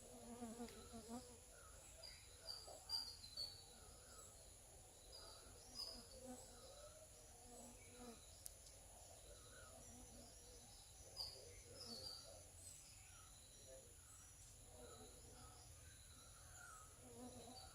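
Faint ambience with scattered short, high bird chirps.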